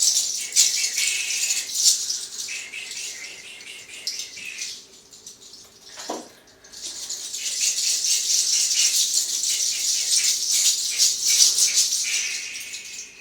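A dry, hissing rattle, shaken or rustled in two long stretches with a short pause about five seconds in.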